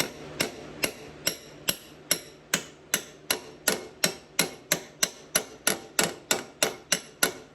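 Hammer blows on a jerry can lid used as a driver, seating a new seal into a Ford toploader transmission: about twenty steady, evenly spaced strikes a little over two a second, each with a short metallic ring.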